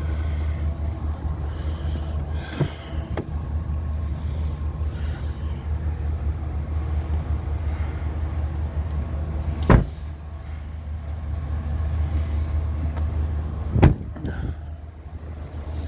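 Pickup truck engine idling steadily, with two heavy thumps of the truck's doors being shut, about ten and fourteen seconds in.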